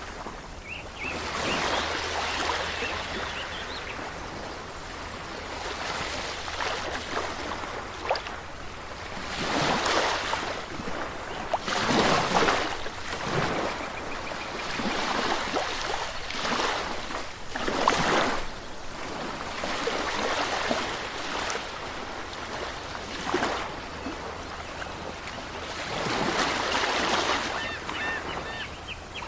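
Ocean waves washing onto a shore, each swell of surf rising and falling every few seconds.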